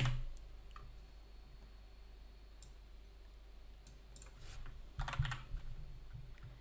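Computer keyboard keys clicking: scattered keystrokes, a few near the start and a louder cluster about five seconds in.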